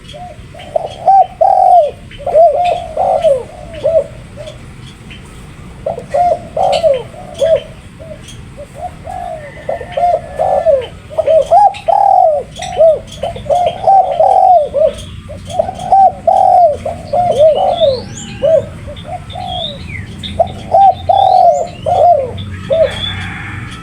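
Spotted dove (tekukur) cooing over and over, loud phrases of several arched, rounded notes with short pauses between phrases.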